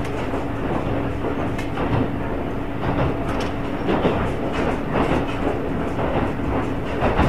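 Wakasa Railway diesel railcar running, heard from on board: a steady engine and running drone with repeated clacks of the wheels over rail joints.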